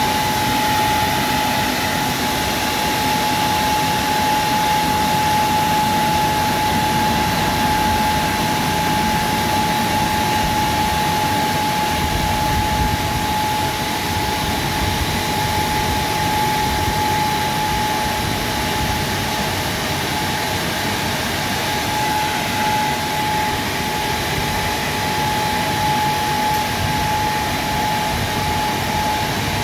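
WashTec SoftCare Pro Classic automatic car wash running: a steady rushing machine noise with a constant whine over it.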